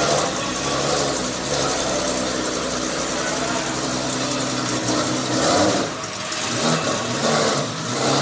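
A car engine idling and running at low speed while the car is manoeuvred backwards, with a change in its sound about five to six seconds in.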